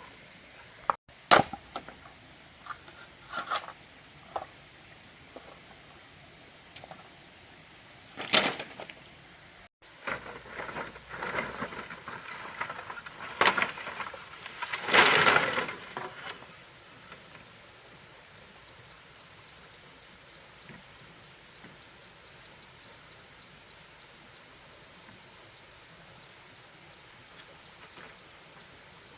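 Crickets and other insects calling: a steady high-pitched drone, with a cricket's pulsed trill repeating in short bursts. Several knocks and clatters are heard in the first half.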